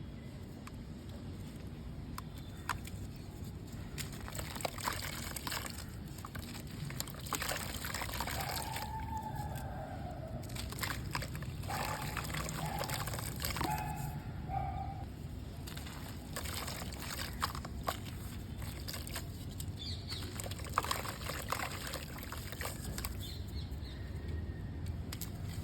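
Red mud crumbling in water: gritty crackles over a run of pouring, trickling water.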